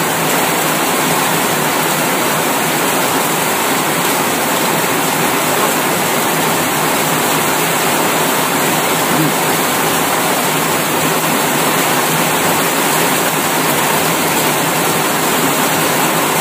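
Heavy rain pouring down on the roof overhead: a loud, steady hiss.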